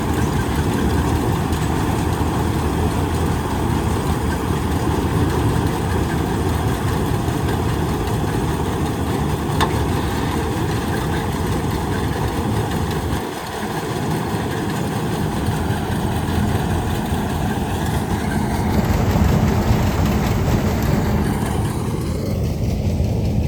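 Tractor engine running steadily, dipping briefly about halfway through and running a little louder near the end.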